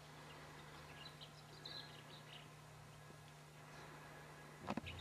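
Faint birdsong: scattered short chirps, mostly in the first half, over a low steady hum, with a couple of soft knocks near the end.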